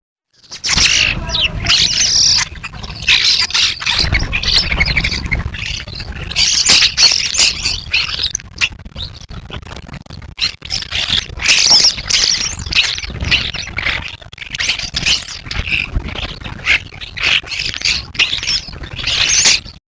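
A large flock of small birds chirping and squawking in a dense, constant chatter over a low rumble, cutting off abruptly near the end.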